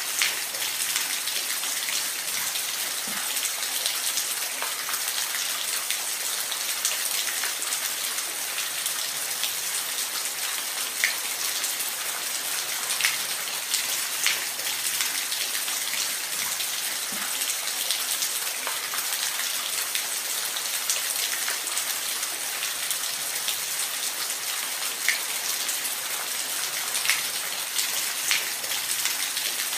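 Steady rain falling in a forest: an even hiss, with scattered louder single drops standing out every few seconds.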